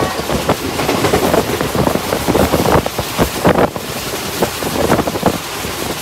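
Passenger train running, heard from an open coach doorway: wind rushing over the microphone, with the irregular clatter of the wheels on the track.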